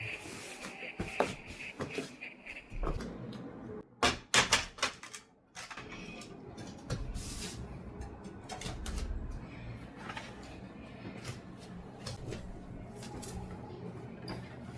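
Household handling sounds: scattered light clicks and knocks, with a cluster of louder knocks about four seconds in, then a steady low hum from about seven seconds.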